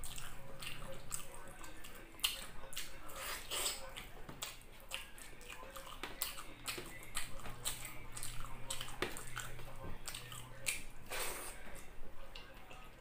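Close-up eating sounds: wet chewing and lip smacking, mixed with fingers squishing rice and sauce, as an irregular run of small clicks.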